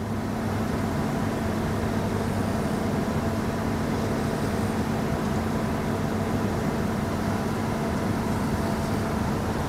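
Steady, even hum of an idling vehicle heard from inside its cab, a constant low drone with a held tone.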